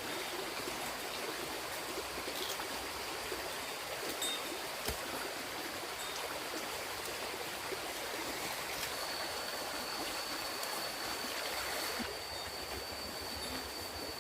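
Water running steadily, like a flowing stream, with a few faint clicks. A thin, steady high whine joins it partway through.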